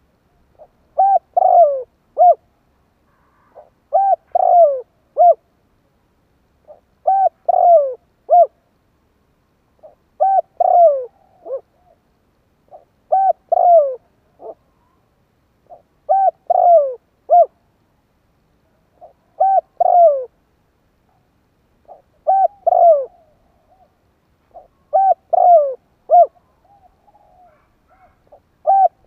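A male spotted dove coos its territorial call over and over, the kind used as a decoy to provoke wild males. Each short phrase is three or four low, falling coos, and the phrase repeats about every three seconds.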